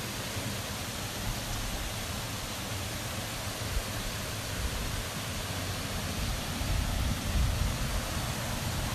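Steady rushing noise of falling water from a waterfall, with a low rumble that grows louder about seven seconds in.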